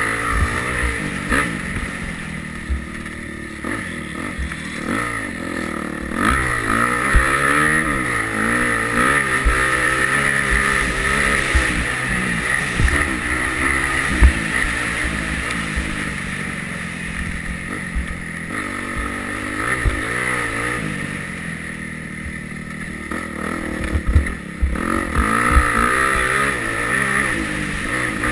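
Yamaha YZ250F four-stroke single-cylinder motocross bike riding, its engine revving up and dropping back over and over as the throttle is worked. Occasional short low thumps are heard among the engine sound.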